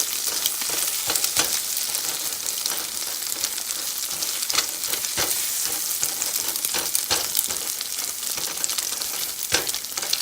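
Eggs frying in bacon fat in a pan over medium heat: a steady sizzle, with a few sharp taps and scrapes as they are stirred.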